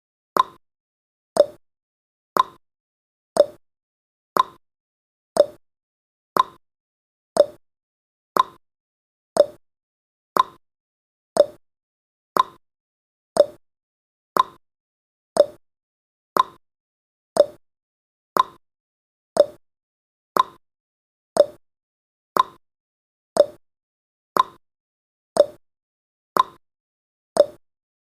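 Countdown timer's tick sound effect: a short, quickly fading click once every second, evenly spaced.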